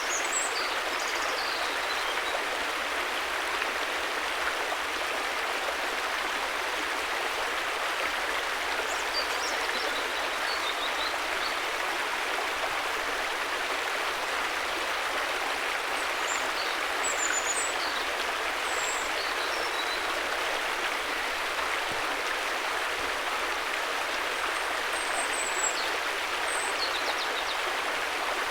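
River water flowing in a steady, even rush. Faint short high chirps come through now and then.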